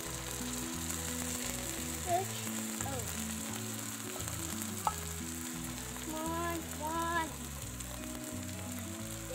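Onions, tomato and green bell pepper frying in oil in a nonstick pan, with canned tuna added on top: a steady sizzle. Low held tones shift underneath, and a single sharp tap comes about five seconds in.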